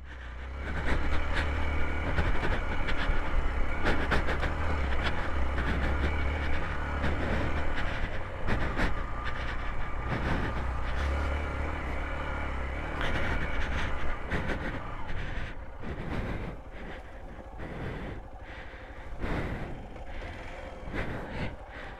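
Hero XPulse 200 motorcycle's single-cylinder engine running with a steady low thrum, which drops away about two-thirds of the way through, amid irregular knocks and clatters.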